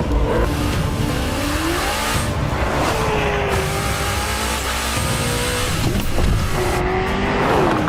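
High-performance sports car engine running hard, its pitch climbing and then sweeping down more than once as it revs and shifts or passes at speed.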